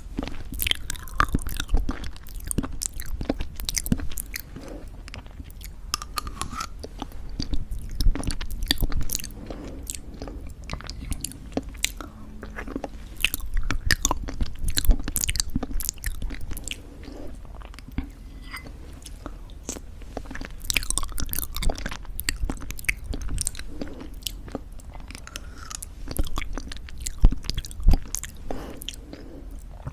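Close-up chewing of homemade granola in thick yogurt, with crisp crunches coming in bursts and quieter stretches between bites.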